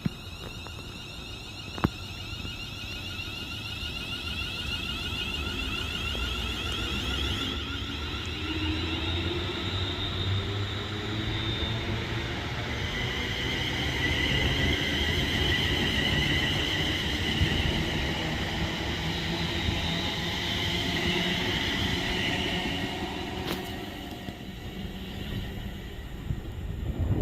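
A train running through the station: a steady rumble with a high whine over it, growing louder toward the middle and fading, the whine cutting off about 23 seconds in.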